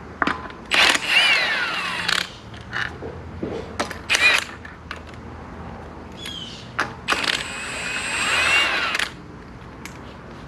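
Power impact wrench with a 19 mm socket spinning off the wheel's lug nuts: two runs of about a second and a half and two seconds, the motor's whine bending in pitch as the trigger is worked, with short metallic clicks between them as the nuts and socket are handled.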